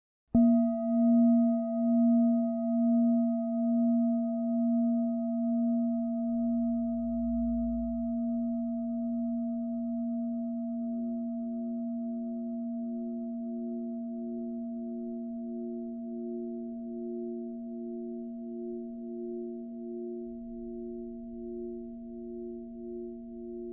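A single struck, bell-like tone, hit once just after the start and left to ring for over twenty seconds. Its loudness wavers in a slow pulse as it slowly fades.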